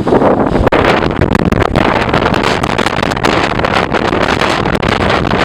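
Severe thunderstorm wind rushing over the microphone, with a dense patter of rain striking throughout.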